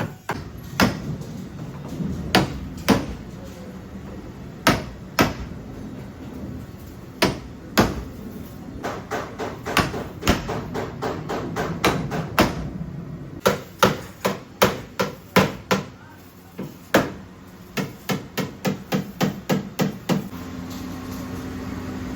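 Hand hammer beating a car's sheet-metal body panel in dent repair. The blows come irregularly, some single and some in quick runs of three or four.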